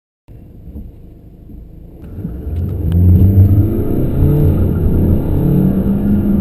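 A car engine accelerating hard from a standstill in a 0–100 km/h run. It starts quietly about a third of a second in, grows much louder about two seconds in as the car pulls away, and its pitch then rises and drops back as it goes up through the gears.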